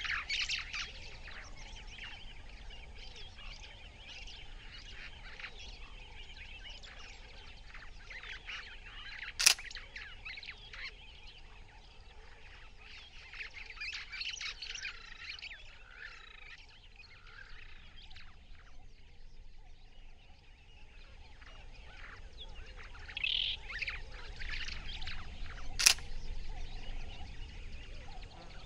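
Wild birds chirping and calling in a continuous outdoor chorus. Two sharp clicks stand out, one about a third of the way in and one near the end.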